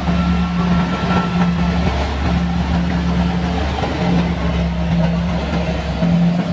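Kubota combine harvester running steadily at work, a loud continuous engine drone with a hum that swells and dips every second or two.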